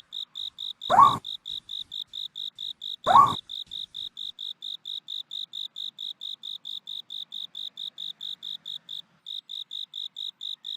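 A cricket chirping steadily, about five high chirps a second, pausing briefly near the end. Twice, about a second and three seconds in, a loud short owl call cuts in, rising in pitch and falling back.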